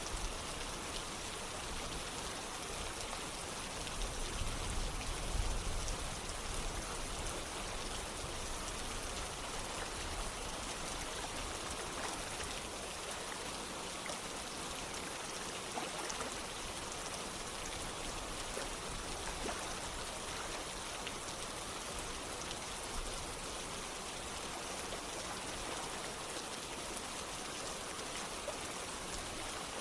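Steady rain falling together with flowing water, an even hiss with no let-up. A brief low rumble comes about five seconds in.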